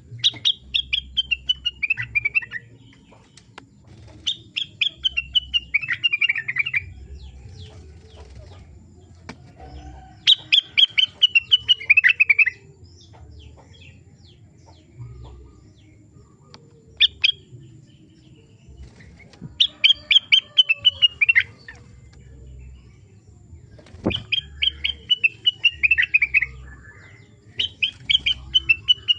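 A caged rengganis (cucak wilis) songbird singing over and over, each phrase a fast run of clear notes falling in pitch over two to three seconds, repeated every few seconds. Underneath is a faint intermittent low hum, with one sharp click near the end.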